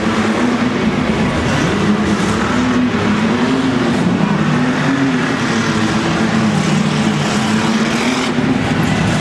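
Tough truck engine revving, its pitch rising and falling again and again as it works over the course.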